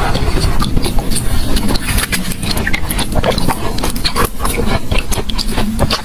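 Ice being chewed close to the microphone: dense, irregular crunching and crackling.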